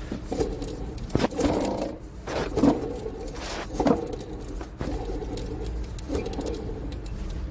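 Alternator pulley of a Mercedes-Benz E350 turned by hand with the drive belt off, giving an irregular rattling, scraping noise with a few louder knocks. The noise comes from the alternator's worn bearings, which the mechanic takes as the alternator needing repair.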